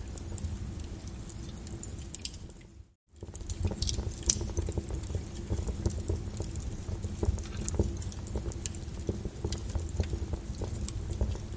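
Wood fire in a fireplace crackling, with irregular sharp pops over a low rumble. About three seconds in the sound fades out to silence for a moment and fades back in.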